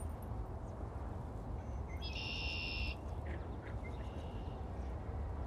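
Outdoor pond ambience with a steady low wind rumble on the microphone. A bird gives one high, buzzy call lasting under a second, about two seconds in, followed by a few faint chirps.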